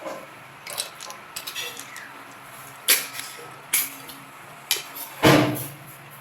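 A series of sharp clicks and knocks of hard objects, about six in all, the loudest and longest about five seconds in.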